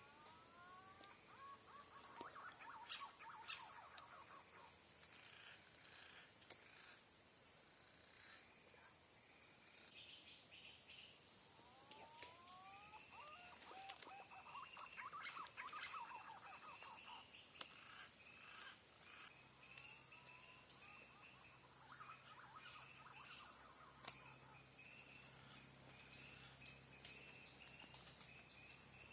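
Faint flock of green pigeons (punai) calling, bouts of overlapping rising whistles with higher twittering, three times over, against a steady high-pitched insect drone.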